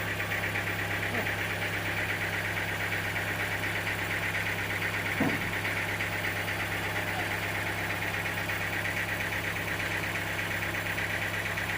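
Engine idling steadily with an even low hum, and a brief call-like sound about five seconds in.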